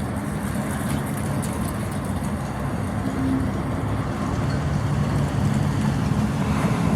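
A motor vehicle's engine running with a low steady rumble and hum, growing louder toward the end, like traffic approaching on the road.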